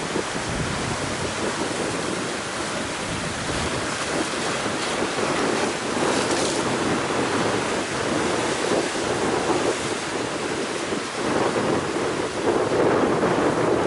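Strong gusting wind buffeting the microphone over the steady rush of waves breaking on the shore, a little louder near the end.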